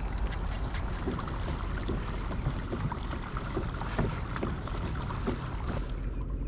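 Water sloshing against a kayak hull, a steady wash broken by many small light ticks and splashes.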